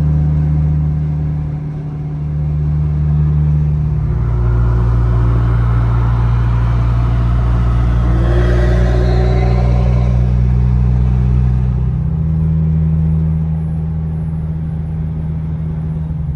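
Car driving at motorway speed: a steady low engine and road drone that shifts in pitch about four seconds in and again about twelve seconds in. A swell of road noise comes through about nine seconds in.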